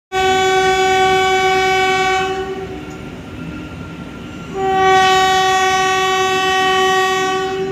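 Train horn sounding two long blasts, the first about two seconds and the second about three seconds, over the running noise of the passing train.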